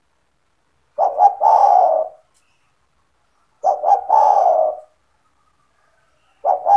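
Spotted dove (tekukur) cooing: repeated coo phrases about every two and a half seconds, each two short notes run into a longer, lower coo, with a third phrase starting near the end.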